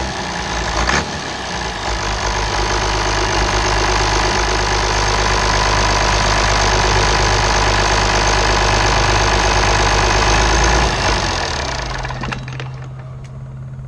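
International DT414 turbocharged diesel engine running smoothly, described as a good runner, growing louder for several seconds, then shutting off about eleven seconds in and winding down, leaving a steady low hum.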